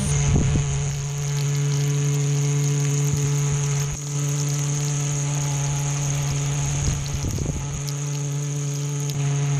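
Small electric hobby motor running steadily with a hum and a thin high whine. It dips briefly about four seconds in.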